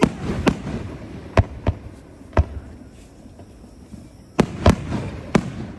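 Fireworks bursting overhead: about eight sharp bangs at irregular intervals, some with a short echoing tail. The bangs come in two clusters with a lull of about two seconds between them.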